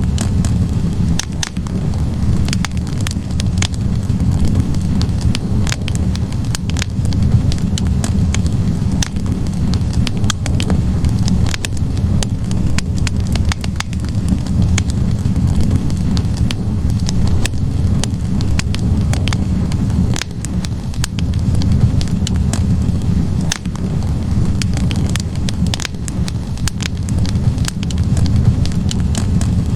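Wood fire burning in a fireplace: a steady low rumble of flames with frequent sharp crackles and pops from the logs at irregular intervals.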